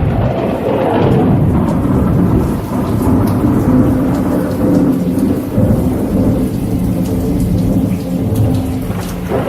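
Loud, steady roar of falling water with a deep rumble underneath.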